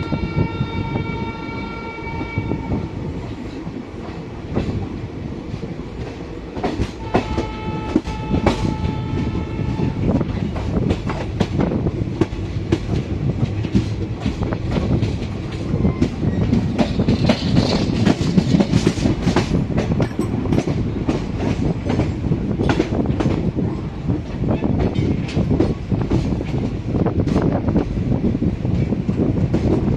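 Express train running at speed: a steady rumble and rapid clatter of wheels over rail joints. The horn sounds twice, once for about three seconds at the start and again for about three seconds about seven seconds in.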